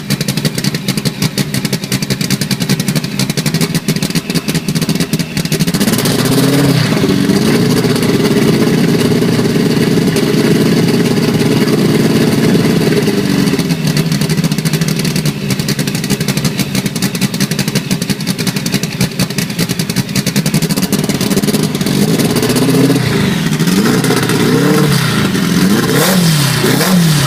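EFI engine running and being revved: it runs unevenly at first, rises in speed about six seconds in and holds there, then is blipped up and down several times near the end.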